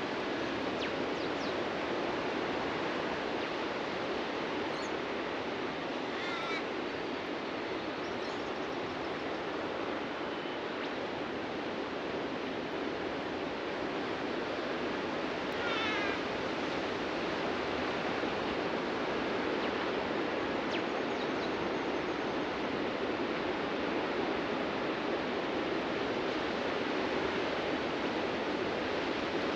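Steady wash of ocean waves breaking on a beach, with birds calling over it: one short call about six seconds in and a longer call of several quick notes near sixteen seconds, with a few faint chirps between.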